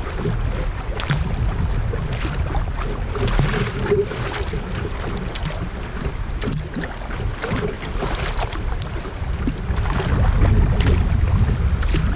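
Kayak on open lake water: paddle splashes and water lapping against the hull, with wind buffeting the microphone throughout.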